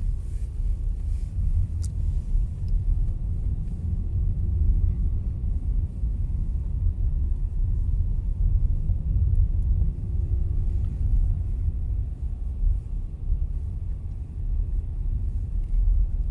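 Steady low rumble of a car driving, heard from inside the cabin: road and engine noise with a faint steady hum.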